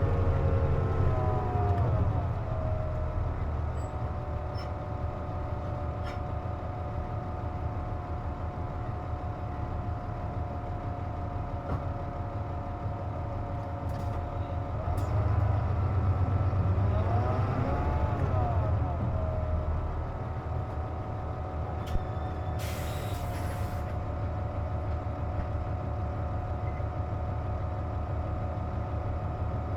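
Cabin sound of a Hino KC-JP250NTN city bus under way: the diesel engine's pitch falls at the start, then rises and falls again about halfway through as the bus pulls away and changes gear, with a short hiss of air about three-quarters of the way in. A steady whine runs underneath throughout; this is the abnormal noise the bus makes with its air conditioning running.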